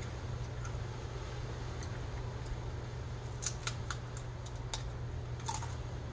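Tortilla chip being bitten and chewed: a cluster of sharp, crisp crunches about three and a half seconds in and a few more after, over a steady low hum.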